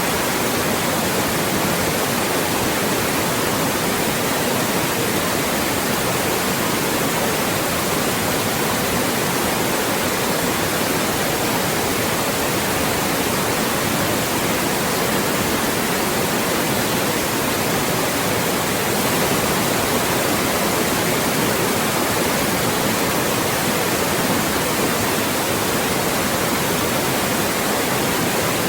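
Loud, steady synthetic white noise, an even hiss across the whole range with no changes, played as a speech-masking sound.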